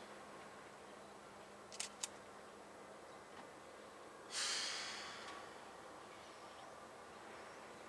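A short hiss, like air being let out, starts about four seconds in and fades over about a second, over a quiet background with two light clicks just under two seconds in.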